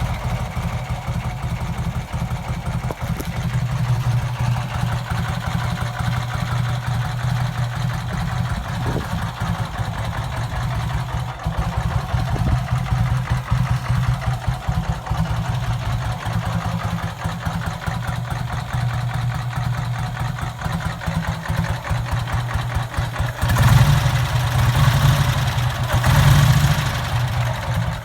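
Vincent 998 cc 50° V-twin motorcycle engine idling steadily, then blipped twice near the end.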